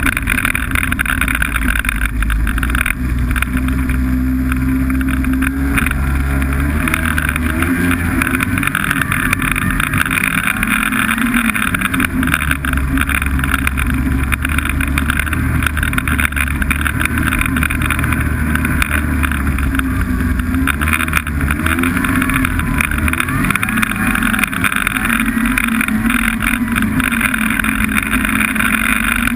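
Snowmobile engine running steadily under way, its pitch rising and falling now and then with the throttle.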